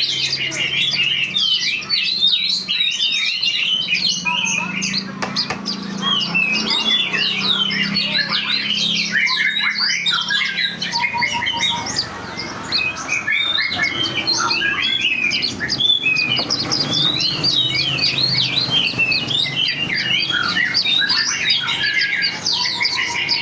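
A dense chorus of many birds chirping and squawking, short calls overlapping without a break.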